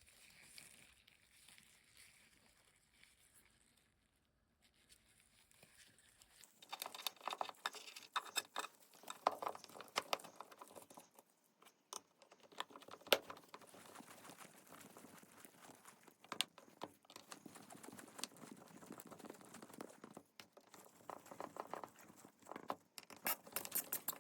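Near silence for about six seconds, then irregular close handling noises: crinkling, light taps and clicks of small parts being handled, with a few sharper clicks.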